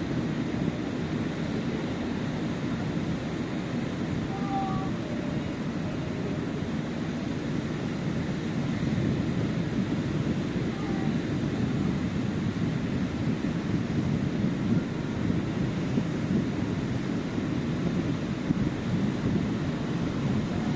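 Sea surf washing onto a beach: a continuous low rushing noise without any distinct wave crashes. A few faint, brief chirps come through about four seconds in.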